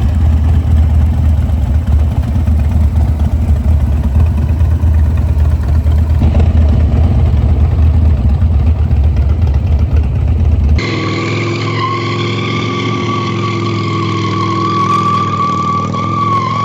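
Harley-Davidson Dyna motorcycle running with a heavy, low rumble. About two-thirds of the way in it cuts suddenly to a steady, slightly wavering tire squeal as the bike is drifted.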